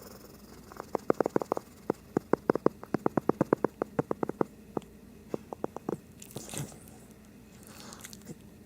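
A Shih Tzu smacking its mouth in a quick run of clicks, about five a second, for roughly five seconds, then a short breathy noise.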